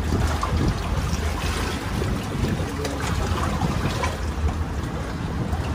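Wind rumbling on the microphone over sea water sloshing against breakwater rocks, a steady noise with a few faint ticks.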